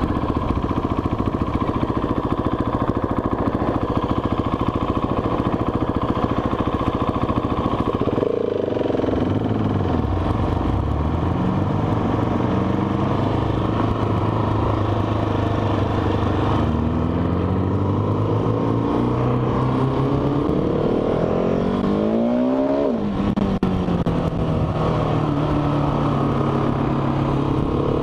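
Motorcycle engine running steadily, then dropping in pitch about eight seconds in. It then accelerates hard, the revs rising through gear changes with pitch drops at each shift, before settling to a steady cruise near the end.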